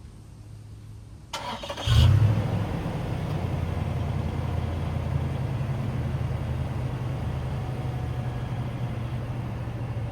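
2008 Toyota Tundra engine cold-started: the starter cranks briefly, the engine catches about two seconds in with a loud flare of revs, then settles into a steady idle.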